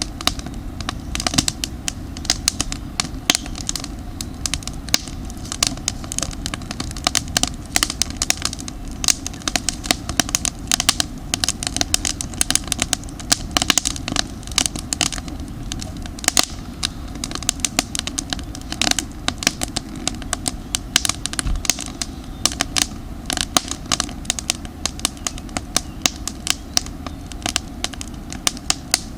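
Campfire of damp firewood crackling, with many quick irregular pops and snaps over a steady low rumble.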